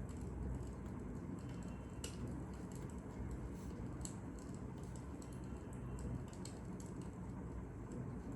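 Fire crackling: a steady low rumble with irregular sharp pops and snaps, one or two a second.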